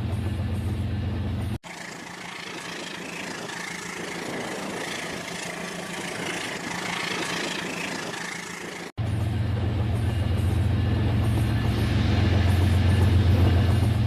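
Model train locomotive running, its engine sound a steady low hum. About a second and a half in it cuts abruptly to a hissing, rattling rolling noise, and the hum cuts back in about seven seconds later, growing louder near the end.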